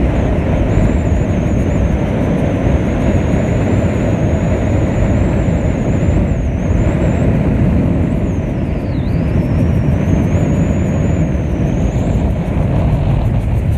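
A train running by with a loud, steady rumble, a thin high whine wavering and dipping above it.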